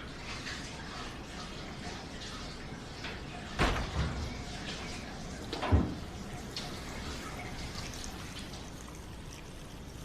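Two dull knocks about two seconds apart over a faint steady background hiss.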